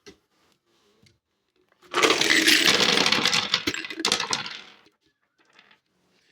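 Many small hard pieces tipped out of a jar and clattering onto a tabletop. The rattle lasts about three seconds, starting about two seconds in, then dies away as the pieces settle flat.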